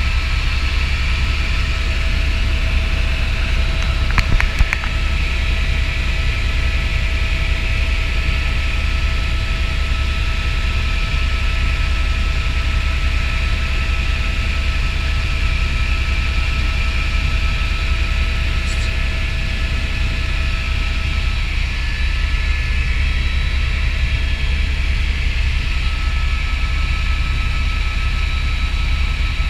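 Helicopter running steadily in flight: a deep, rapid rotor beat under a steady turbine whine, with a few brief clicks about four seconds in.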